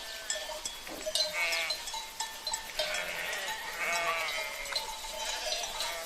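Sheep bleating: several short, wavering bleats, about a second and a half in and again around three and four seconds in, with cowbells clinking faintly.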